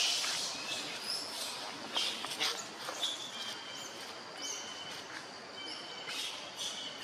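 Birds chirping: scattered short, high chirps and whistles over a steady background hiss.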